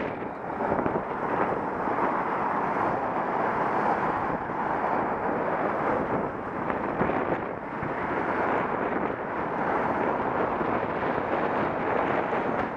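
Steady wind noise buffeting a Contour action camera's microphone while cycling, a constant rush with small rises and dips.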